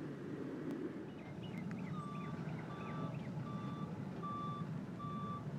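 Low rumble of a slow-moving freight train. From about two seconds in, a steady electronic beep like a reversing alarm repeats about once every three-quarters of a second.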